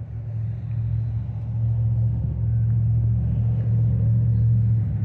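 Car engine running with a steady low hum that grows louder over the first two seconds, then holds.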